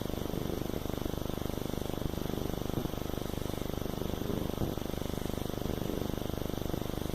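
A beagle snoring: a low, fast fluttering rattle that goes on without a break.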